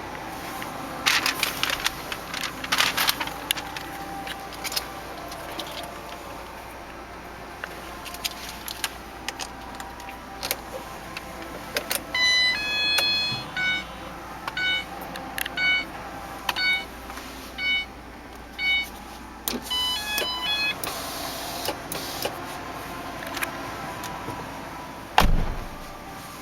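A 2010 Ford Transit Connect's electronic warning chime beeping, about one beep a second for several seconds, then a few quicker beeps. Sharp clicks come before it, and a single heavy thump near the end sounds like a door shutting.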